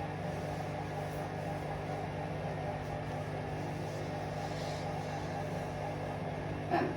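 Hoover Vision Dynamic washing machine running a spin-only programme: a steady motor hum with the drum turning.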